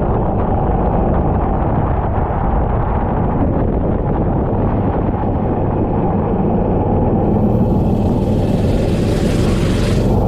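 Go-kart engine running steadily at speed, recorded onboard. A broad hiss joins about seven seconds in and cuts off near the end.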